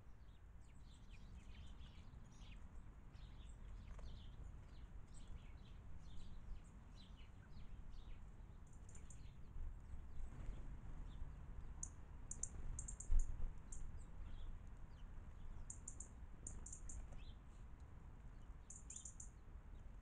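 Small garden birds chirping: many short chirps in quick succession, then bursts of rapid, higher-pitched twittering from about nine seconds on. A steady low rumble underneath, and one brief low thump about thirteen seconds in.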